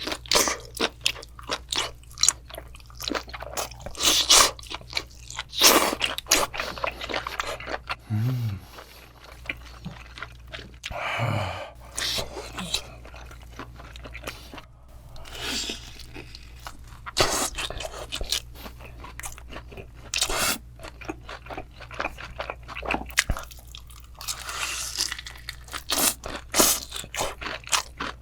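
Close-miked eating of crispy fried chicken: irregular, repeated sharp crunches as the fried coating is bitten and chewed.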